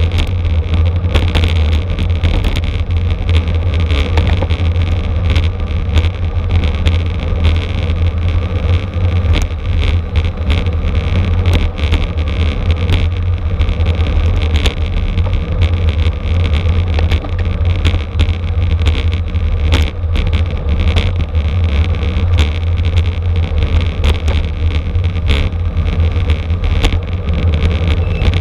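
Wind buffeting the microphone and road rumble from a racing bicycle at speed, loud and steady, with frequent short clicks and knocks.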